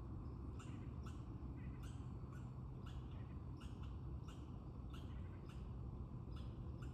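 Birds calling in short, sharp notes, about two or three a second, over a steady low rumble.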